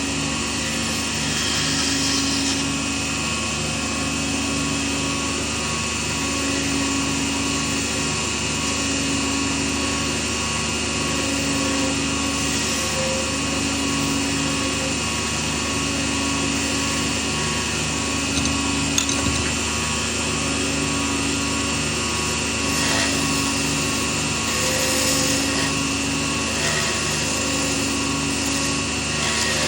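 Small lathe running steadily, its motor hum pulsing at an even rhythm.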